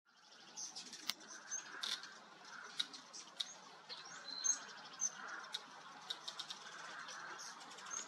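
Birds calling with short, high chip notes and ticks scattered throughout, over a faint steady hiss.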